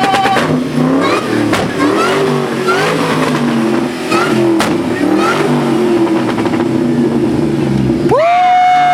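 Supercharged 4.6-litre V8 of a Terminator Mustang SVT Cobra being revved in quick repeated blips, then taken up to high revs near the end and held there for almost two seconds.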